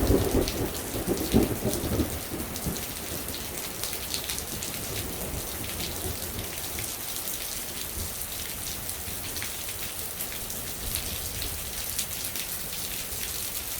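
Steady rain falling, with many individual drops ticking close by. A rumble of thunder in the first couple of seconds is the loudest part.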